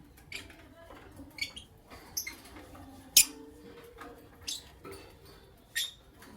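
Lovebirds giving short, sharp, high chirps at irregular intervals, about seven in all, the loudest about three seconds in.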